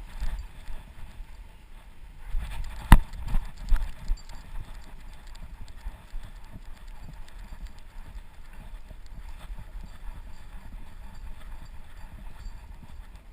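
A dog's running footfalls heard through a GoPro on its chest harness: a rapid, uneven patter of thumps and jolts from the camera mount. There is a sharp knock about three seconds in.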